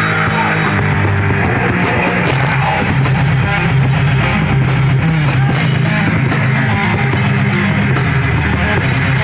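Heavy metal band playing live, loud and continuous: distorted electric guitars and bass over a drum kit.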